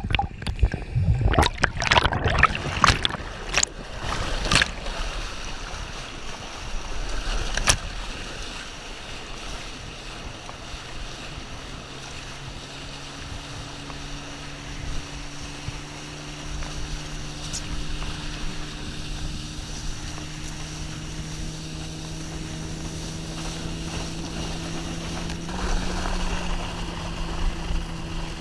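Water splashing and churning for the first few seconds, then a motorboat engine pulling a wakeboarder: a steady hum that climbs slowly in pitch, with a small step up near the end, over rushing water.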